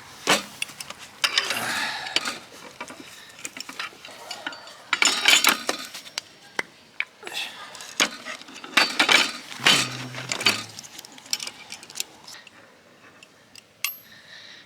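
Cutlery and dishes clinking and clattering in short, irregular knocks as they are handled.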